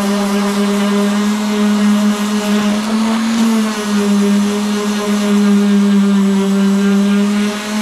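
Electric sander running steadily against a wooden dresser, sanding off the old stain. Its steady motor hum rises slightly in pitch about three seconds in, then settles back.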